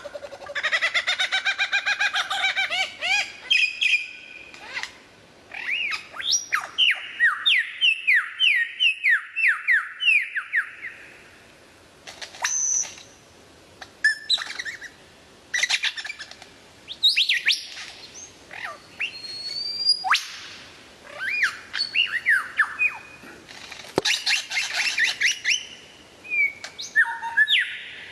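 Birds calling: a rapid run of stacked chirps in the first few seconds, then a series of quick whistled notes, each falling in pitch, followed by assorted chirps and squawks in short separate bursts.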